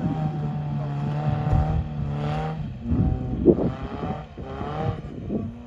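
Off-road 4x4's engine running at steady revs, then settling to a lower pitch about three seconds in. A few knocks come through over it.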